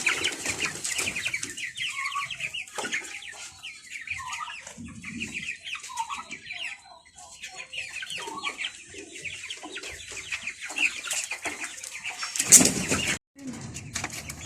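A flock of young chickens, white broiler chicks about two weeks old, peeping rapidly and continuously, with some lower clucking among them. A brief loud rustling burst about twelve seconds in, followed by a short break.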